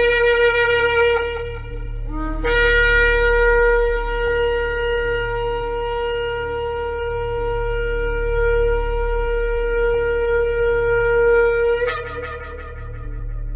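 Shofar blown: a short blast, then a long single held blast of about nine seconds that breaks upward just before it ends.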